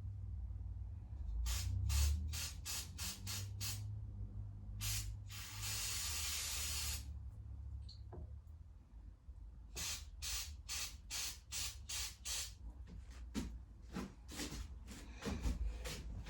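Aerosol carburetor cleaner sprayed in a series of short, quick spurts, with one longer spray of about a second and a half midway, then another run of short spurts; the cleaner is being blown through the small mower carburetor's holes and jets to clear them.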